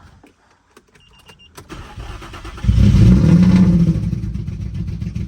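A short beep and a click, then an Infiniti G35's straight-piped 3.5-litre V6 cranks briefly, fires up loud and settles to a lower idle. The owner considers the engine blown.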